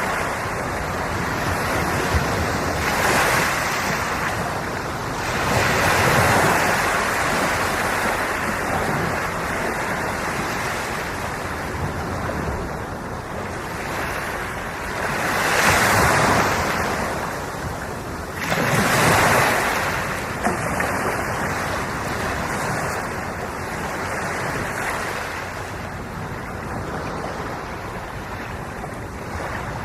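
Ocean waves washing in as a steady rush of surf, swelling louder four times, twice in the first few seconds and twice just past the middle.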